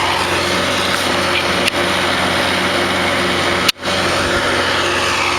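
Engine running steadily at idle, with a brief click and momentary dropout in the sound about two-thirds of the way in.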